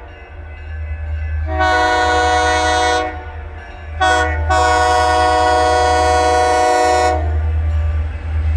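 Diesel locomotive's multi-chime air horn sounding a long blast, a short toot and a final long blast. These close the long-long-short-long grade-crossing signal. After the horn stops, the rumble and wheel noise of the approaching train grow louder near the end.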